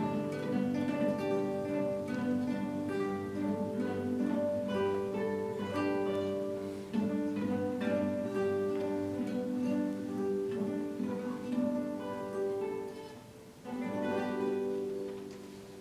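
A large guitar ensemble of acoustic classical guitars plays a slow piece in plucked chords and melody. The music ends on a final chord about 14 seconds in, which rings and fades away.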